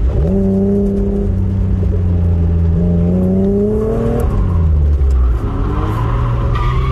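Nissan Skyline R31 drift car's engine running hard at high revs. The pitch jumps up at the start, holds, then climbs slowly before dropping around four seconds in and carrying on at lower revs.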